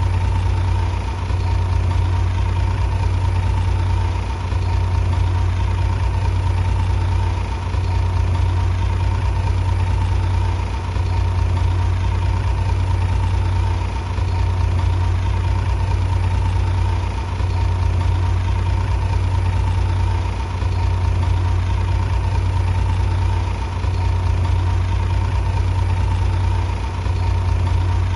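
Bulldozer's diesel engine running steadily: a deep hum with a thin, constant whine above it, easing off slightly about every three seconds.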